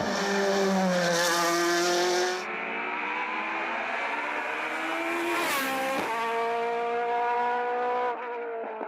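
Race car engine on a hill climb, driven hard: the pitch falls over the first two seconds, climbs, drops sharply at a gear change about six seconds in, then climbs again.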